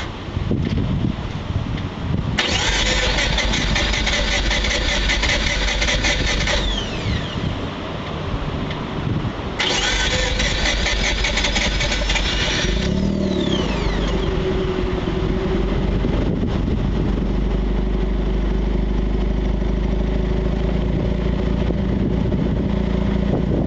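Mazda RX-8's two-rotor Renesis rotary engine breathing through a 5Zigen aftermarket muffler, revved hard twice, for about four seconds and then about three, with the revs falling away after each. Near the middle it settles into a steady idle.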